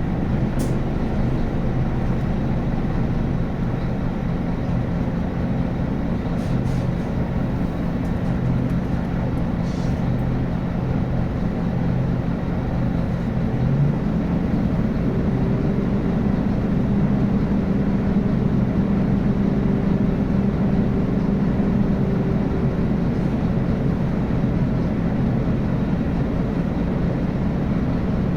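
Scania N280UB city bus with a five-cylinder diesel and ZF Ecomat automatic gearbox, running steadily on the move. The engine note steps up to a higher pitch about halfway through and holds there, typical of a change of engine speed or gear.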